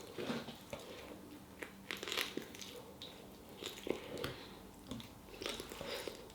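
A person chewing and biting into food, with quiet, irregular crisp crunches.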